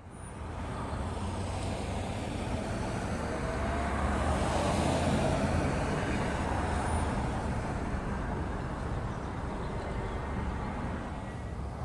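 Road traffic noise: a car's engine and tyres running on the road, swelling to its loudest around the middle and easing off toward the end.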